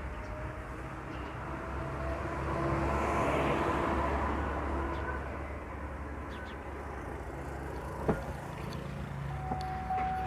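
Car engine running with a steady low hum, swelling louder for a couple of seconds about three seconds in, and a sharp click about eight seconds in; the car is a 2010 Chevrolet Cruze with a 1.6 litre engine.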